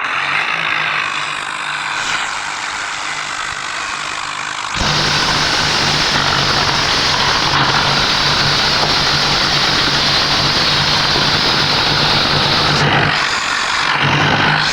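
Heavy vehicle engine running hard with a steady low drone, louder and harsher from about a third of the way in.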